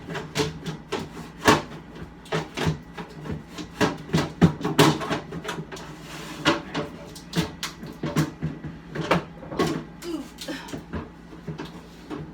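Plastic refrigerator bins and drawers being pulled out and handled: a run of irregular knocks and clatters.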